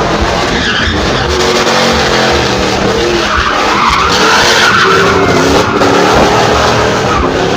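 A drift car's engine revving up and down as its tyres skid and squeal, the tyre screech loudest in the middle.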